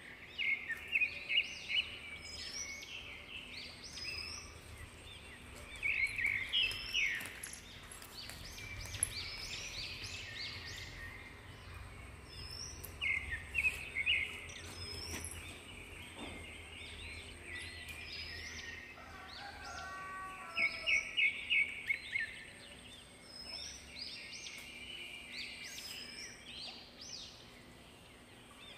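Several birds calling: repeated bursts of short, high chirps and quick trills, with a run of lower falling notes about twenty seconds in.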